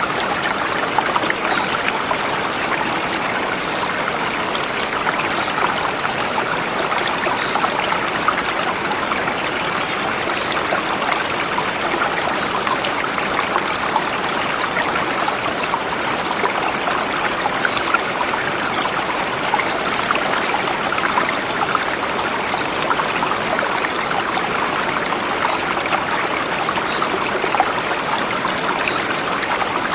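River water flowing over rocks, a steady, even rush and splash with no pauses or changes.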